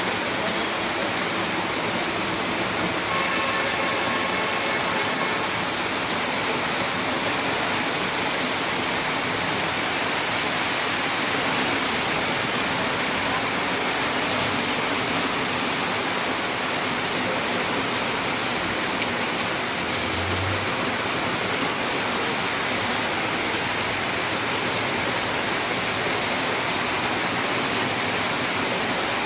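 Torrential rain pouring down: a loud, steady hiss of heavy rainfall.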